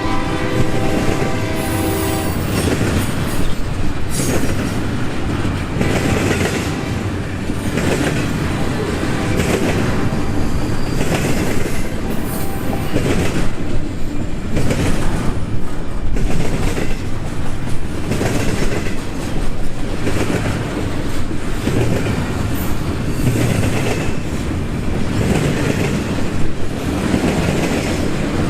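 Union Pacific intermodal freight train passing a road crossing. The locomotive horn's chord cuts off about two seconds in. Then the cars roll by with a steady rumble and a rhythmic clatter of wheels about every two seconds.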